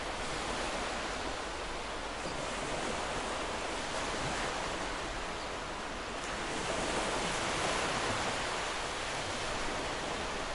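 Ocean surf: waves washing onto a beach in a continuous rush, swelling a little about two-thirds of the way through.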